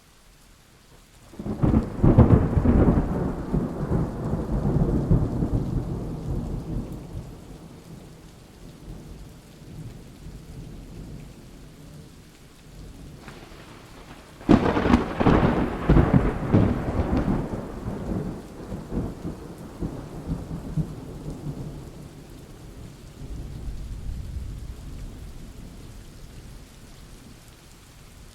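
Rain falling steadily with thunder: two loud rolls of thunder, the first about a second and a half in and the second sudden, sharp one at the midpoint, each rumbling and dying away over several seconds, and a softer roll later.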